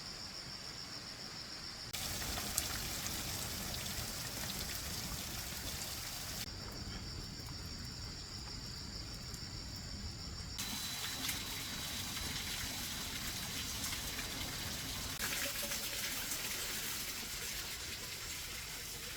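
Water trickling and splashing as a steady noisy wash, which changes abruptly in character about every four seconds.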